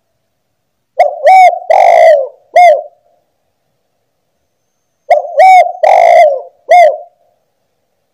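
Spotted dove (tekukur) cooing twice, each call a phrase of four notes: two short, a longer drawn-out one, then a short one. Clean, with silence between the calls.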